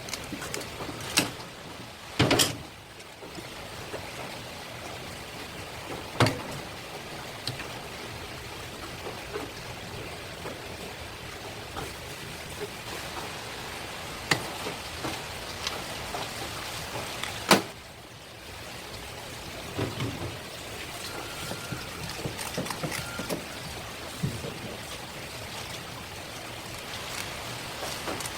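Steady running water, with a few sharp knocks, the loudest about two, six and seventeen seconds in.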